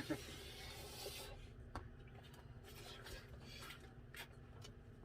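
Faint eating noises as noodles are eaten from a bowl: a soft hiss through the first second, then scattered small clicks and rubbing from the utensils.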